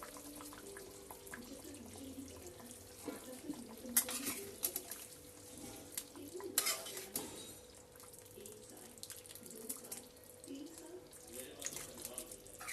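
Kitchen cookware and utensils clinking and clattering, with two sharper clinks about four and six and a half seconds in.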